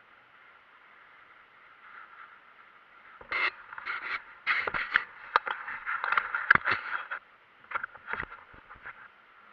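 Irregular scraping and crackling noises with sharp clicks, starting about three seconds in and dying away near the end, over a steady faint hiss; no engine is heard.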